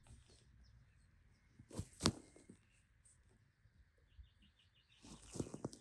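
Quiet outdoor garden ambience with faint birdsong, broken by two sharp knocks in quick succession about two seconds in and a cluster of clicks and rustling near the end.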